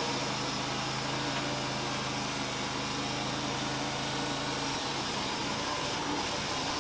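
Wood-Mizer LT35 portable band sawmill running, its engine steady under the dense hiss of the band blade cutting through a Douglas fir log. The low engine tone drops away about five seconds in while the cutting hiss carries on.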